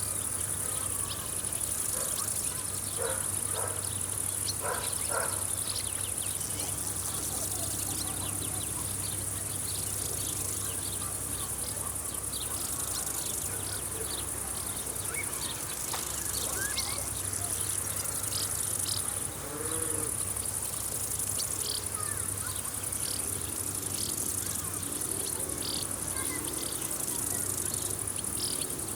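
Steady high-pitched chirring of crickets or grasshoppers in a summer field, with scattered short bird chirps and a steady low hum underneath.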